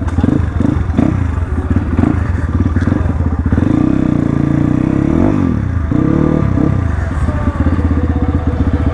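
Crossfire RM250 dirt bike engine running on the move, pulsing at first, then held at higher revs for a while; the revs drop briefly about five seconds in, pick up again, then settle into a steady pulsing run.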